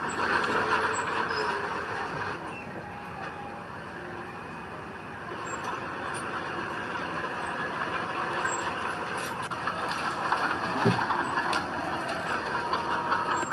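Heavy diesel earthmoving machinery running steadily, its engine noise dipping a little a few seconds in and building again after.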